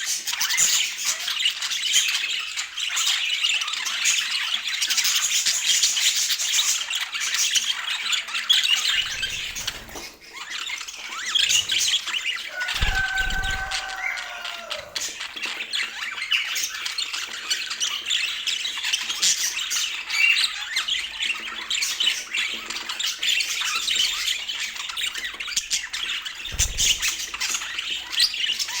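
Budgerigars chattering and warbling, a dense, continuous stream of high-pitched chirps and squawks. About halfway through there is a lower, drawn-out call.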